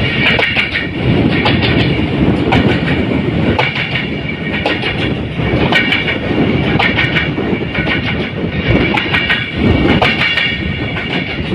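Moving train hauled by locomotive 3013, wheels clattering over rail joints against a steady running noise.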